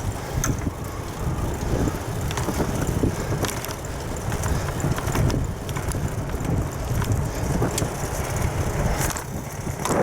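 Wind buffeting the microphone while riding a bicycle, with a steady low rumble and scattered clicks and rattles from the bike on the path.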